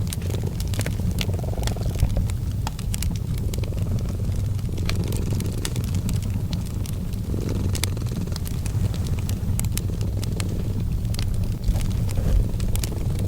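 A cat purring steadily in a low rumble that swells and eases with each breath, every couple of seconds, mixed with the crackle and small pops of a wood fire.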